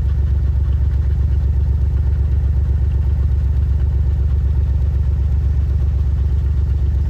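Vehicle engine running steadily at idle: a low, even drone with a regular firing pulse.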